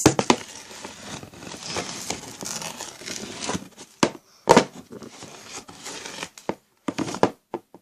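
Homemade slime being handled in a plastic bowl, making irregular sticky crinkling and crackling with scattered sharp clicks, the loudest about four seconds in.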